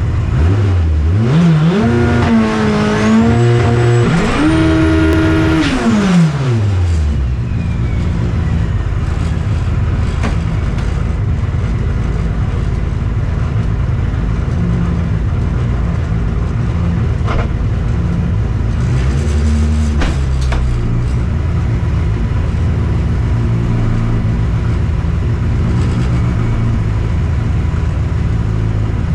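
Car engine accelerating hard, then a missed shift into 4th gear sends it climbing steeply to a screaming over-rev about five to six seconds in. The revs collapse within a couple of seconds as the engine blows up, leaving steady road rumble as the car rolls on.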